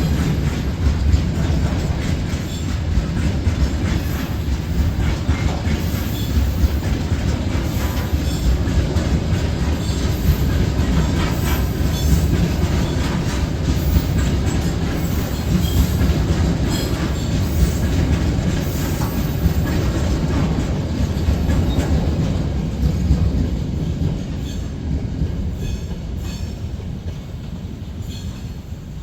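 Train running past on the track: a steady heavy rumble with the clickety-clack of wheels over rail joints, fading away over the last few seconds.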